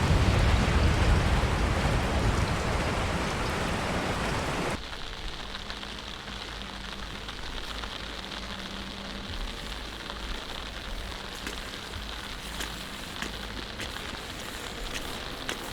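Heavy rain falling with a low rumble underneath, which cuts off suddenly about five seconds in to lighter, quieter rain with scattered drip ticks.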